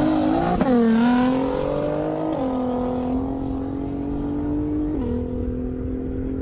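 Sports car accelerating hard from a standing start. Its engine note climbs in pitch and drops at each upshift, about half a second, two and a half and five seconds in, and grows quieter as the car pulls away down the runway.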